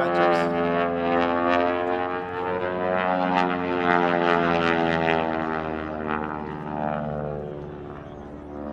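Aerobatic biplane's piston engine and propeller droning overhead, its pitch wavering slightly as it manoeuvres. It is loudest over the first half, then fades as the plane draws away.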